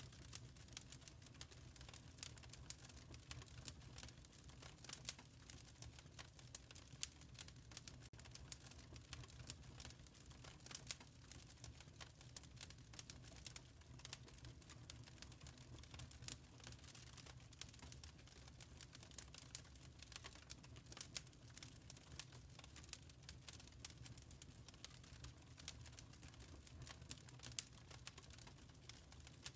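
Wood fire crackling in a fireplace, a quiet, steady run of irregular small pops and snaps over a low, even rumble.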